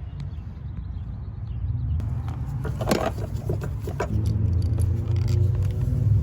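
A few light metallic clicks and knocks of hand-tool work on a Mercedes V6's ignition coil pack and its T30 Torx screws, over a steady low rumble that grows louder after about four seconds.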